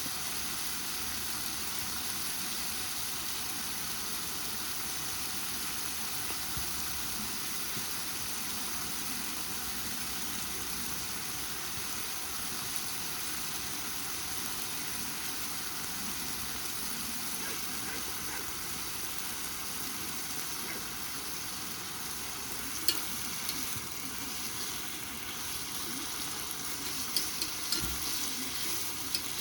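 Seseri (chicken neck meat) and garlic frying in a pan, a steady sizzle, with a few sharp clicks near the end.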